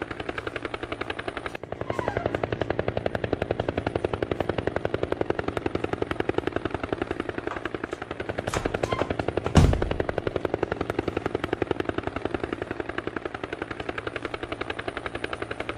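Helicopter rotor chopping in a rapid, steady beat, with one loud low thump about two-thirds of the way through.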